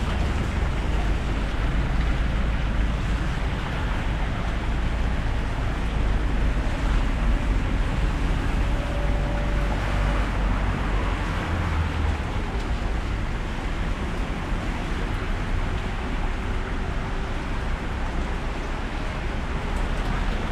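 Steady hiss of heavy rain falling in a street, over a constant deep low rumble.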